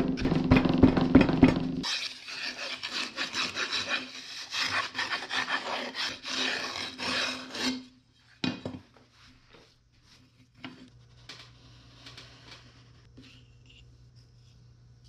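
Molding sand being scraped and rubbed by hand: heavy strokes at first, then a dense run of gritty scraping that stops about eight seconds in, followed by a few light knocks.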